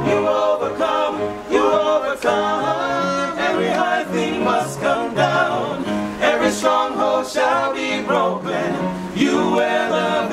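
A male vocal group singing in harmony, a cappella.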